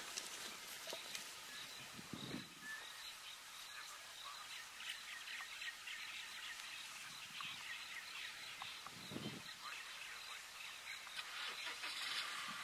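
Faint bush ambience: birds chirping over a steady high background hiss, with two brief low sounds about two and nine seconds in.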